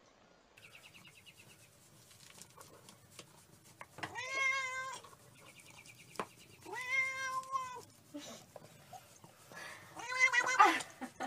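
Tabby cat meowing three times, long drawn-out meows a few seconds apart, the last one the loudest.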